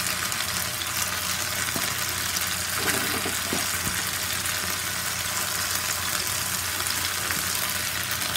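Raw plantain slices sizzling steadily in shallow oil on a flat dosa tawa, a continuous dense crackle of frying.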